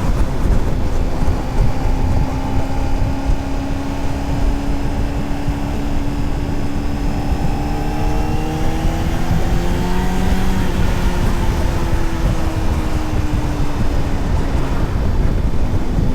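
Honda CBR600RR inline-four engine running at riding speed under heavy wind rumble on the microphone. Its pitch climbs gently about eight to ten seconds in as the throttle opens, then eases back down.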